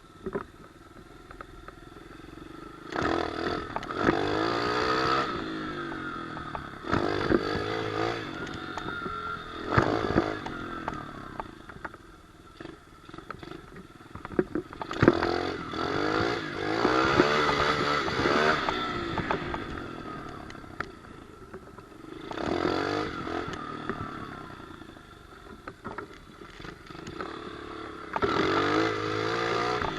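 Pit bike engine revving up and falling back in about six throttle bursts, with quieter running between them and a few sharp knocks.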